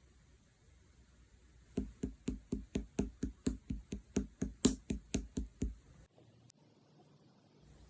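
Quick, even tapping, about four light knocks a second for about four seconds, one a little past the middle louder than the rest.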